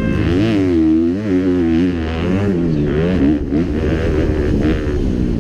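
Kawasaki four-stroke motocross bike engine revving up and down repeatedly, its pitch climbing and dropping every second or so as the throttle opens and closes.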